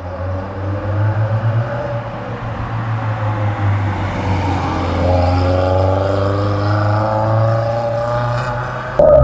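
MG TF sports car's four-cylinder engine driving past through a hairpin bend, its note rising as the car accelerates out of the corner. Just after nine seconds the sound changes abruptly to a louder, steadier engine drone.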